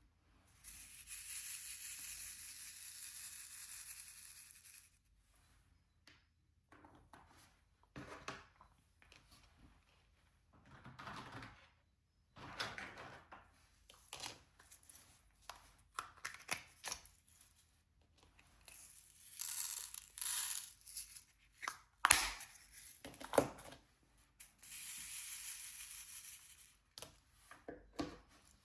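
Diamond painting at work: three stretches of steady rustling hiss, each a few seconds long, with scattered light taps and clicks between them. Two sharp clicks about two-thirds of the way through are the loudest sounds.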